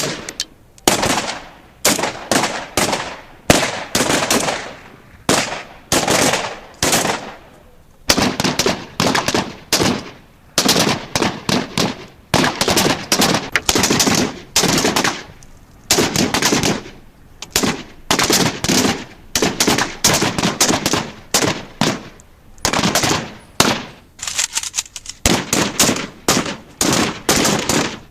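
Automatic gunfire from a military firearm: short bursts of rapid shots, one after another with brief gaps between them.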